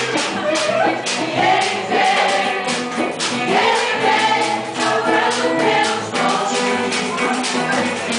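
Group of voices singing a Portuguese gospel worship song over a steady percussion beat.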